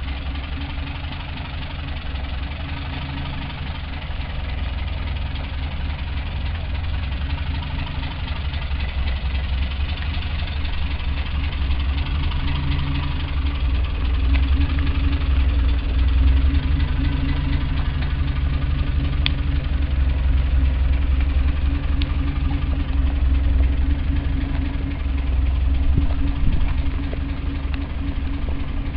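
Engine of a Mercedes-Benz hearse idling at walking pace, a steady low rumble that grows somewhat louder in the second half.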